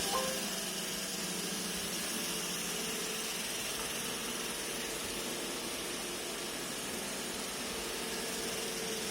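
iRobot Roomba e5 robot vacuum running, a steady, even whir of its vacuum motor and brushes.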